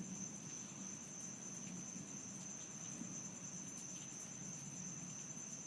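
Night insects trilling: a steady, high, rapidly pulsing drone, over a faint low background rumble.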